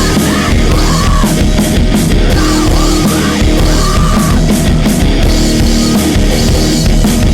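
Loud heavy rock music, the full band playing with drums hitting steadily, and a bending melodic line over it in the first half.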